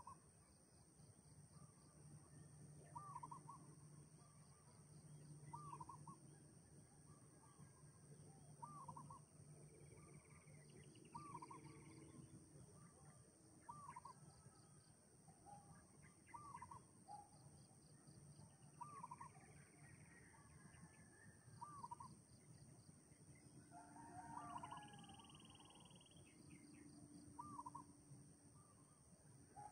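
Faint bird calls: one bird repeats a short call about every three seconds, with a few other brief calls now and then, over a steady high-pitched drone.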